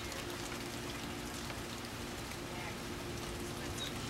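Steady rain falling in a thunderstorm, an even hiss, with a faint steady low hum underneath.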